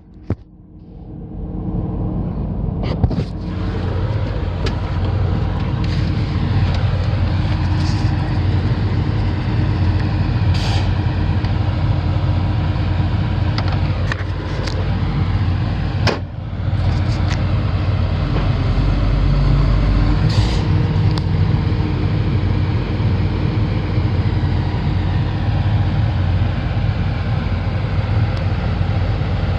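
Komatsu PC450-LC8 excavator's diesel engine running steadily, with a few scattered clicks. It is quieter for the first two seconds, and the low hum swells around two-thirds of the way through.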